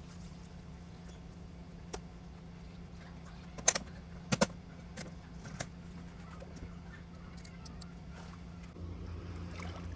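A steady low mechanical hum with a few sharp clicks and knocks, the loudest a close pair about four seconds in.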